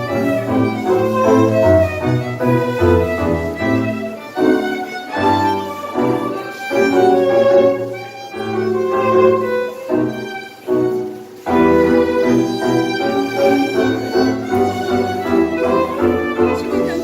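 Live tango music: a violin carries the melody over bowed strings, with a low bass line that drops out briefly about two-thirds of the way through.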